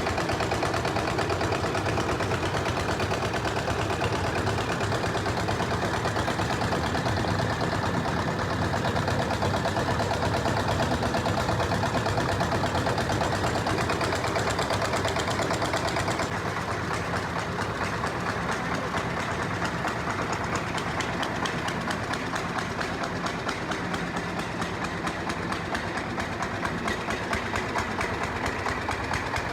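Diesel engine of a portable mini rice mill running steadily with a fast, even chugging, along with the mill's machinery noise. About halfway through, the hiss of the high end drops away and the sound gets a little quieter.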